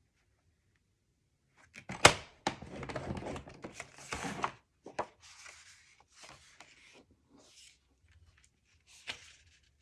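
Cardstock being scored on a scoring board: a sharp tap about two seconds in, then about two seconds of scraping as the scoring tool is drawn along the paper, followed by lighter paper rustles and a couple more taps.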